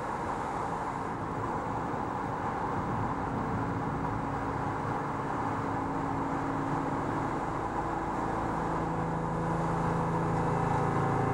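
Steady rushing road and tyre noise of a car driving through a road tunnel. Low sustained drone tones fade in and swell, growing louder over the last few seconds.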